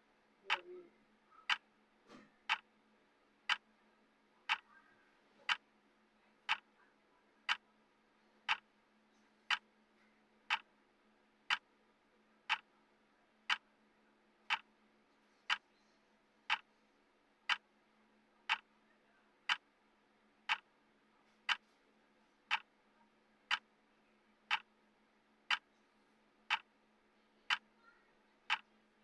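Timer's clock-tick sound effect: one sharp tick every second, evenly spaced, over a faint steady hum.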